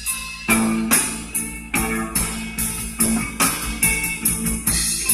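Instrumental passage of a blues song, electric guitar over a drum beat and deep bass, played back through a car audio system with 3-way passive component speakers and subwoofers.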